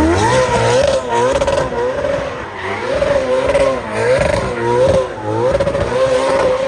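Ferrari F8's twin-turbo V8 through a loud aftermarket exhaust, its engine note rising and falling again and again under hard throttle, with a few sharp cracks in between. The car runs an aggressive tune set up to pop and bang.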